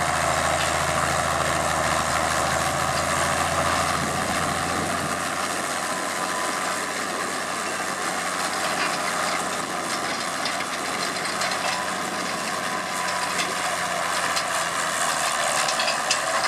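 Case IH 1455 XL tractor's six-cylinder diesel engine running steadily. Its deep low note weakens about five seconds in, while a strong mid-pitched engine noise carries on.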